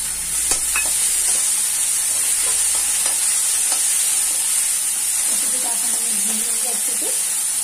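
Chopped tomatoes, onions and spices frying in hot oil in a kadhai with a steady sizzle, stirred briskly with a slotted steel spoon that scrapes and clicks against the pan.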